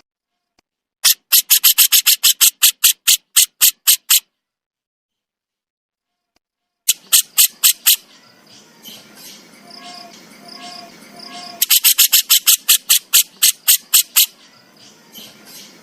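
Jenggot jawa songbird giving its 'besetan' call: bursts of rapid, sharp rattling notes, about four a second, three times. A fainter background of repeated high chirps runs between the later bursts.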